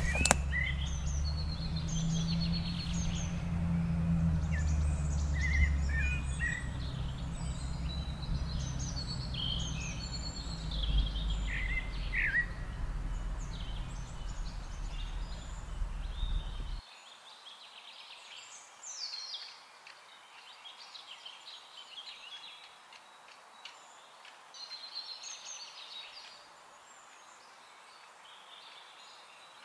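Small birds chirping and calling here and there in the trees, with many short, high chirps. Under them is a low rumble that cuts off abruptly about two-thirds of the way through.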